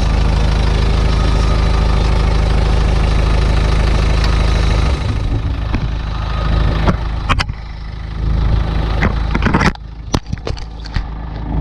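Isuzu 4BD1T four-cylinder turbo diesel idling steadily just after a cold start. About five seconds in the engine sound drops and a series of sharp knocks and clicks from handling of the microphone come through.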